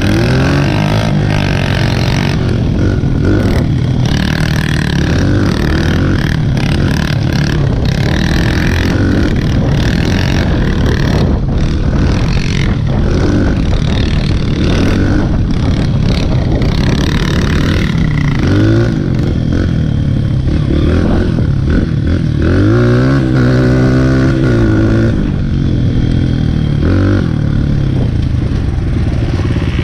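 Dirt bike engine running under load, its pitch rising and falling again and again as the throttle is worked, with the clearest revs about 19 and 23 seconds in.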